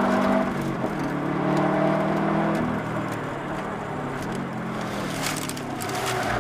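Subaru Impreza WRX's turbocharged flat-four engine pulling at speed, heard inside the cabin. Its note drops and quietens about half a second in, then runs lower with small rises and falls. A short patch of crackling comes near the end.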